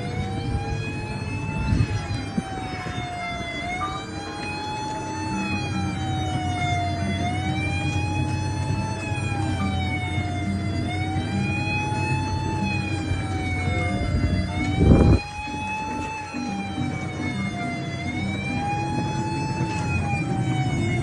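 Police-style siren wailing continuously, its pitch rising and falling in a slow, even cycle every three to four seconds over a steady low hum. A single loud knock comes about fifteen seconds in.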